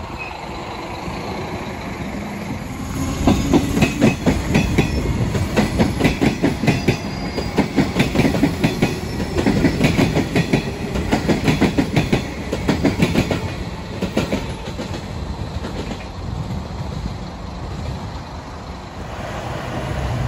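Melbourne Metro Comeng electric train passing, its wheels clacking in a fast, dense run over the rail joints from about three seconds in until about fourteen seconds in, then fading away.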